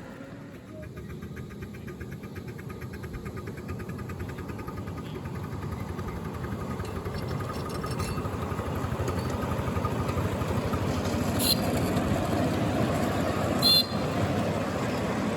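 A miniature 5-inch gauge locomotive running on the track, its sound growing steadily louder as it draws near. Two short, sharp sounds come near the end, the second one the loudest.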